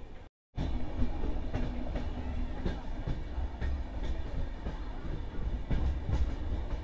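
Passenger train running, heard from on board: a steady low rumble with irregular clacks of the wheels over rail joints. The sound cuts out completely for a moment just after the start.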